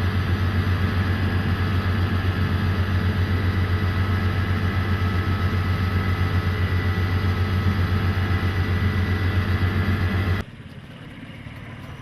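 A small engine running steadily at idle with a rapid, even throb; it cuts off abruptly about ten seconds in.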